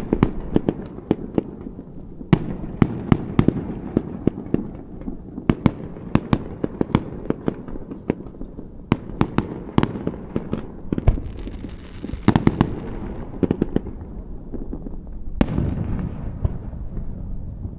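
Aerial fireworks bursting: many sharp bangs in quick clusters, with a stretch of crackling, and one loud bang near the end that fades away slowly.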